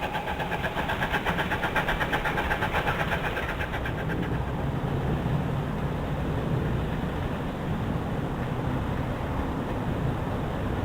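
Steam train running with a quick rhythmic beat, about five a second, that fades after about four seconds into a steady low rumble.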